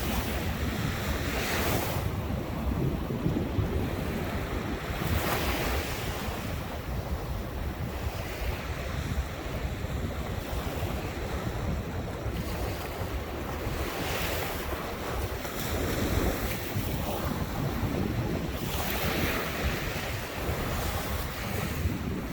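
Ocean surf: waves break and wash up the shore every few seconds, each a swelling hiss that fades. A steady low rumble of wind buffets the microphone throughout.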